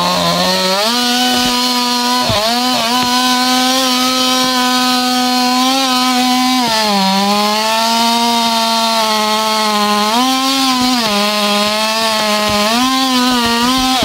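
Chainsaw revving up to full throttle in the first second and held there. Its pitch sags and recovers several times as the chain loads in the cut.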